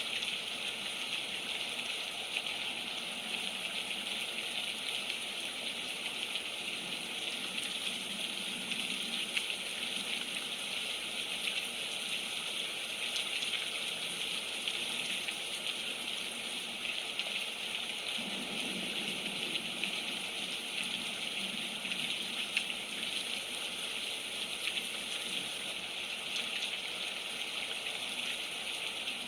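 Heavy rain falling steadily, splattering on the ground and on the top of a fort, a continuous hiss with fine drop ticks.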